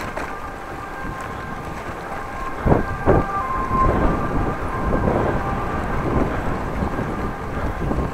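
Wind buffeting the microphone of a bike-mounted camera during a ride, with two loud gusts about three seconds in, then uneven rushing swells. A steady high whine sits under it for the first few seconds.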